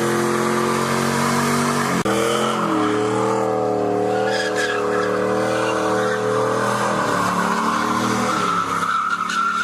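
V8 muscle car doing a burnout: the engine is held at high revs while the rear tyres squeal. The engine pitch steps up about two seconds in and wavers, then falls away right at the end.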